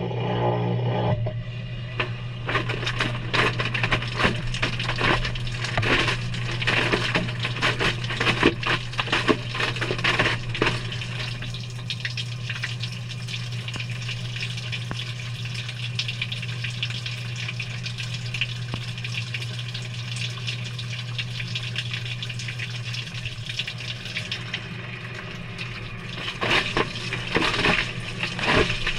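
Water splashing and sloshing inside a Maytag front-loading washer drum as the wash tumbles on a delicate cycle, over a steady low motor hum. A humming tone cuts off about a second in, and the splashing grows denser again near the end.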